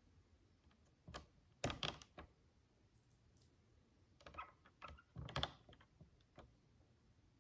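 Tiny plastic micro bricks clicking and tapping as they are handled, in two short clusters of quick clicks, about a second in and again around four to five seconds in.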